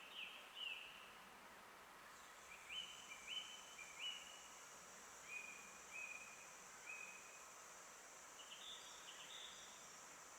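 Faint forest birdsong: a bird gives a string of short, clear whistled notes, a few sliding down at first, then several flat notes in a row, with a higher flurry near the end. A steady high-pitched hiss comes in about two seconds in and holds.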